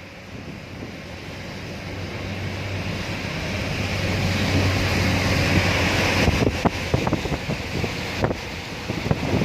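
A rushing noise swells over about six seconds with a low hum beneath it; then wind buffets the microphone in short knocks.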